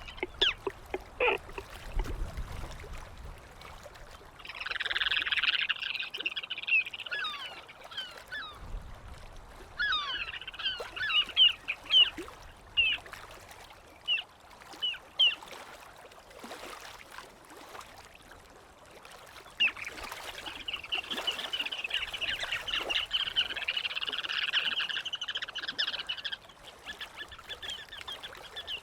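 A group of gulls calling: three bouts of fast, harsh chattering calls lasting a few seconds each, with scattered single calls between them. Low rumbles come twice, around two and nine seconds in.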